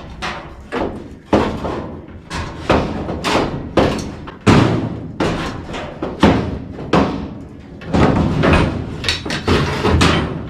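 Repeated knocks and thuds of tools and metal furnace parts being worked, about two a second at an uneven pace.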